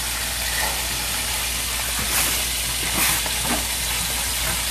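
Food sizzling steadily in hot oil on the stove, with a few brief crackles.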